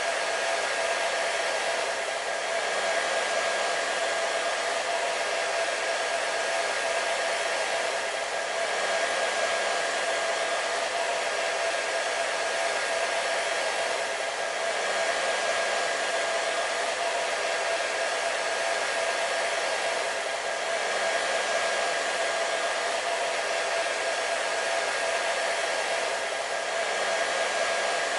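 Hair dryer running steadily: a constant rush of air with a steady motor whine under it, dipping slightly in level about every six seconds.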